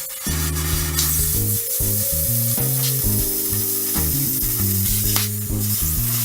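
Electric welding arc crackling and sizzling steadily, with a few sharper pops, over background music.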